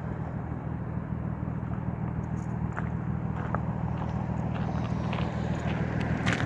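Lexus IS250 AWD's 2.5-litre V6 idling steadily through a muffler-delete exhaust with 3-inch piping, a deep even drone. From about two and a half seconds in, scattered light clicks and taps sound over it.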